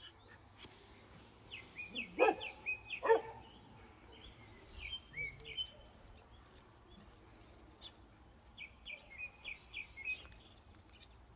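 Birds chirping in short repeated phrases of quick high notes, with two brief, louder sharp sounds about two and three seconds in.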